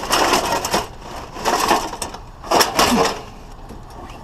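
Scrap being handled and worked apart by hand: three short bursts of scraping and crunching.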